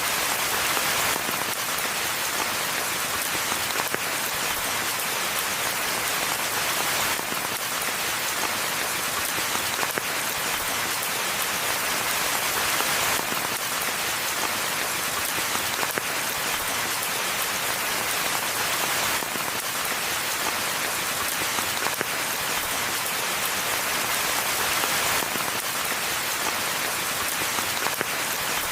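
Steady rainfall in a forest: an even, dense hiss of many drops, with no thunder and no break.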